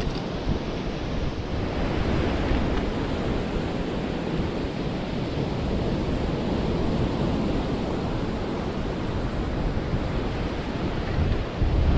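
Ocean surf washing onto the beach, a steady rush, with wind buffeting the microphone in low rumbling gusts that grow stronger near the end.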